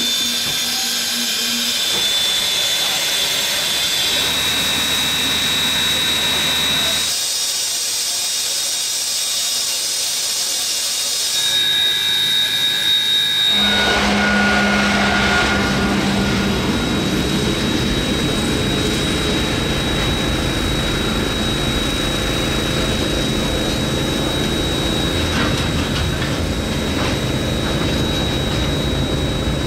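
Steam hissing from NZR Ja-class steam locomotive 1271 with a diesel locomotive idling alongside, a thin high whine running through. About 14 seconds in this gives way to the heavy, steady rumble of a container freight train rolling past, its diesel locomotive running.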